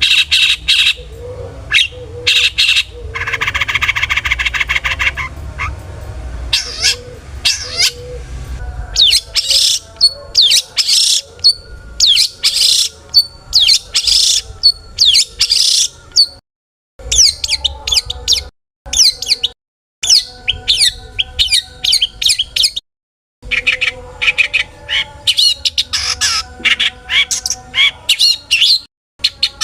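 Long-tailed shrike (cendet) singing loudly and continuously: rapid strings of sharp, varied chirps and squawks, with a harsh buzzing call a few seconds in.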